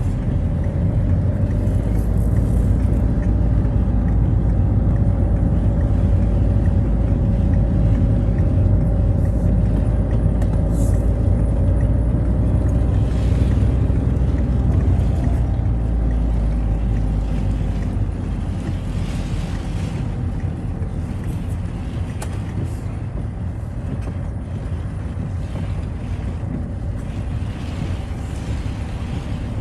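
Citroën Xsara driving on a wet road: a steady low engine and tyre rumble with a faint engine whine that drifts in pitch. Short swells of hiss come and go, and the rumble eases a little about eighteen seconds in.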